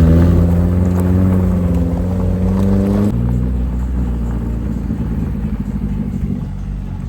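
Car engine revved up and held at high revs for about three seconds, then suddenly dropping off to a lower rumble that slowly fades.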